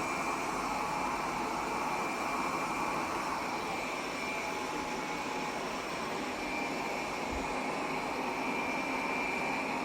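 Airzeen R7 robot vacuum running: a steady whirring with a faint high whine.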